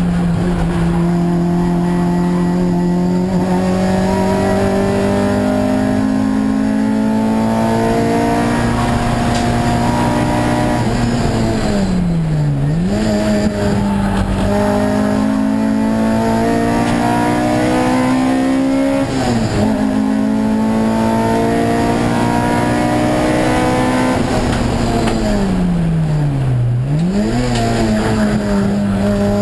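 Honda Civic EG race car's 1800 four-cylinder engine heard from inside the stripped cabin, running hard at high revs with long, slow climbs in pitch. Three times, about twelve seconds in, around nineteen seconds and near the end, the revs fall sharply and climb straight back.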